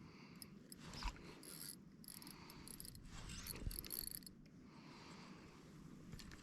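Fishing reel working in irregular bursts, faint mechanical whirring and clicking, while a hooked tuna is played on the rod.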